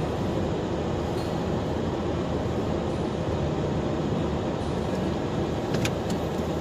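Steady rumble of a car's engine and tyres driving on a snow-covered road, with a couple of light clicks near the end.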